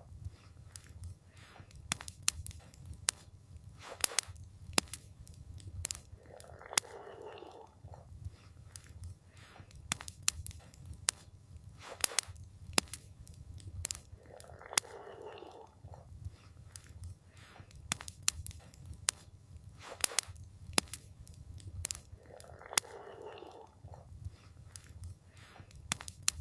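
Campfire crackling: sharp pops and snaps of burning wood several times a second over a low rumble, with a soft swell of noise returning about every eight seconds.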